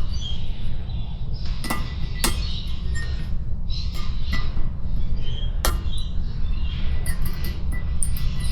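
A few sharp, light metallic clinks and taps, with small scratching sounds, as a steel scribe and gasket are worked against a cylinder head, over a steady low rumble.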